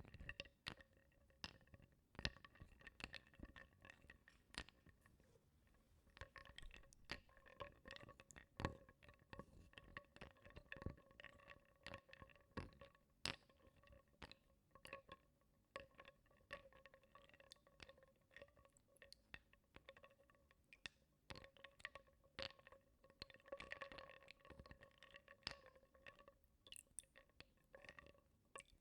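Wooden blocks stirred through water in a bowl, knocking and clinking softly against each other and the bowl in an irregular stream of small clicks. A faint steady ringing tone runs underneath.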